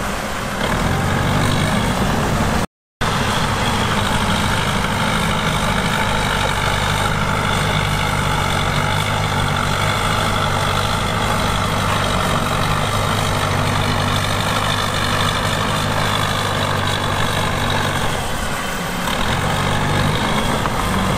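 Heavy-equipment diesel engine running steadily, with a brief dropout to silence about three seconds in.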